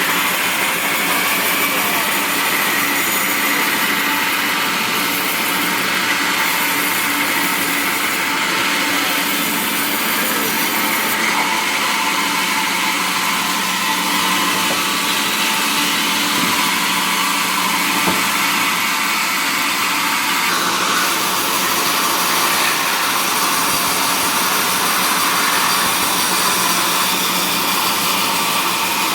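Sawmill wood-cutting machinery running steadily: a constant loud noise over a steady low hum, with no pause or change.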